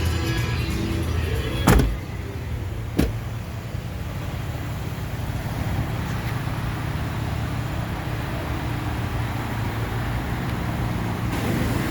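Background music at first, then two sharp thumps about a second and a half apart, like vehicle doors shutting. After them comes a steady low running noise of a vehicle.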